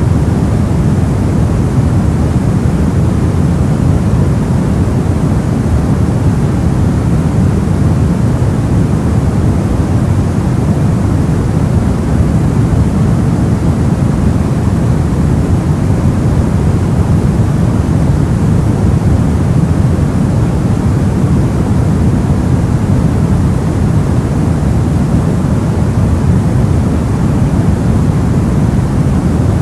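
Soft white noise for sleep: a steady, unchanging rush, deepest and strongest in the low range with only a faint hiss on top.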